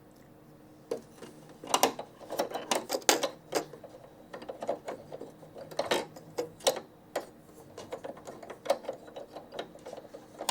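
Irregular plastic clicks and light knocks from the Brother PE900's bobbin case being dropped into its holder under the needle plate and fitted into place. The clicking starts about a second in.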